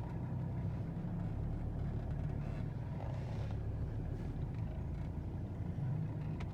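Mercedes-Benz 300SD's five-cylinder turbo diesel idling steadily shortly after a cold start, running on 100% canola biodiesel close to its gelling temperature.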